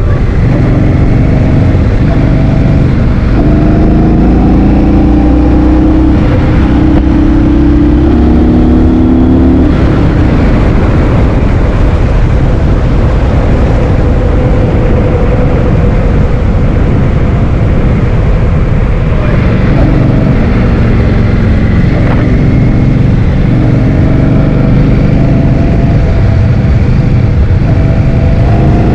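Heavy wind noise buffeting the microphone of a moving rider, a constant low rumble, with a vehicle engine under it whose note climbs as it accelerates twice, once a few seconds in and again in the second half.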